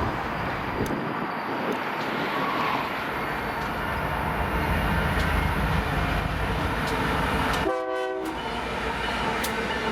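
Freight train running past with a steady rumble of wheels on rail. A short blast of the locomotive horn, about half a second long, sounds near the end.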